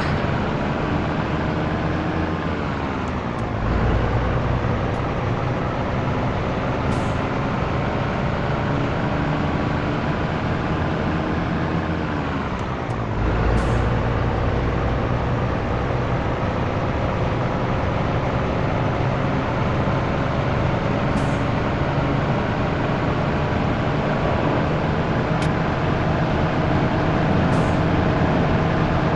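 Scania T113 truck's 11-litre six-cylinder diesel engine pulling through the gears: engine speed climbs steadily, drops with a gear change about three seconds in and again about thirteen seconds in, then climbs again.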